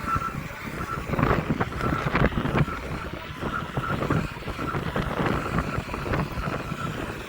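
A 5,000-watt 72-volt electric bike being ridden: wind buffeting the microphone over road and tyre noise, with irregular knocks and a faint steady high whine that comes and goes.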